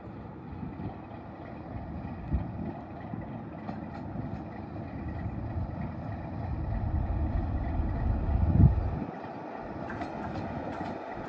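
Diesel locomotive running, a low rumble that builds to its loudest about eight and a half seconds in, then drops away suddenly.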